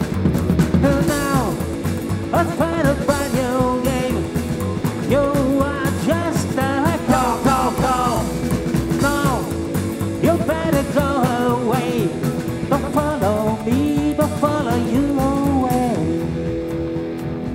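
Rock band playing live with a lead vocalist singing over guitars, bass and drums; the singing stops about a second before the end while the band plays on.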